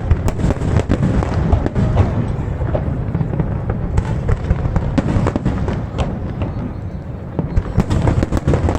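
Aerial fireworks bursting in quick, irregular succession: a dense run of sharp bangs and crackles over a continuous low rumble.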